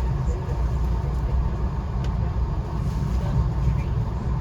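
Via Rail passenger train under way, heard from on board: a steady low running rumble with a few faint clicks over it.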